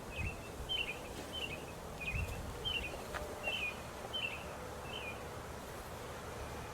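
A songbird singing a short chirping note over and over, about eight times at an even pace of roughly one every two-thirds of a second, then stopping, over a faint steady background hum.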